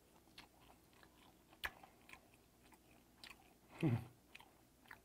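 Close-up chewing of a mouthful of steamed stingray: soft, wet mouth clicks and smacks, with one sharper click about a second and a half in. A brief low hum from the throat, falling in pitch, comes at about four seconds and is the loudest sound.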